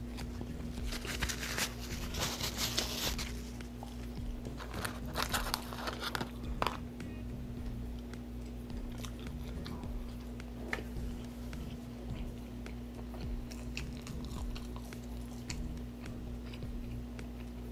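Close-up chewing of a mouthful of fast food with the mouth closed: wet, crunchy chewing noises. They come in two louder spells in the first seven seconds, then go on fainter.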